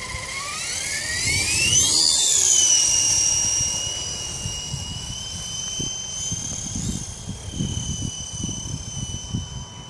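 Small FX070C RC helicopter's electric motor and rotors whining, spooling up from a low to a high pitch over the first two seconds, then holding a steady high whine in flight. Gusty wind rumbles on the microphone in the second half.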